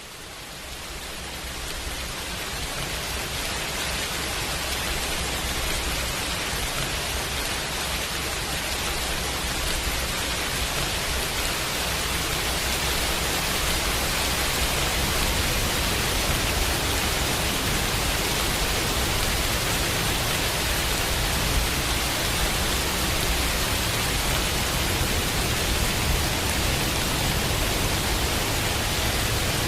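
Steady, dense hiss of rain mixed with white noise, swelling up over the first few seconds and then holding even.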